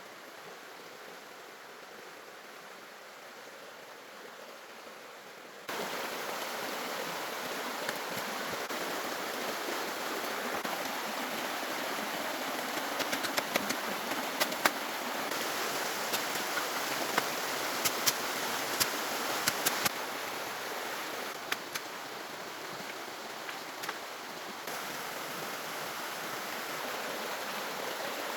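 A steady rush like running water, stepping up suddenly about six seconds in, with scattered sharp clicks partway through.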